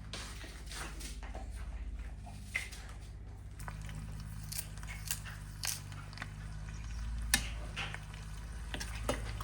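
Faint steady low hum with scattered light clicks and taps, the loudest a sharp tick about seven seconds in.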